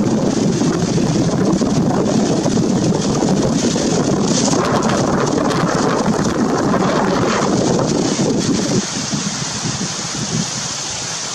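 Loud rushing, fluttering noise of wind buffeting the microphone, easing off about nine seconds in.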